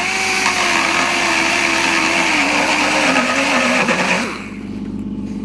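Handheld electric power tool cutting or grinding at a steel motorcycle fuel tank, its motor pitch wavering and dipping as it bites. The tool stops about four seconds in, leaving a lower steady hum.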